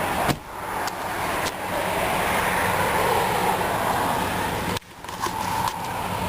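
2005 Nissan Pathfinder's 4.0-litre V6 idling steadily with wind on the microphone, with a few brief knocks and clicks.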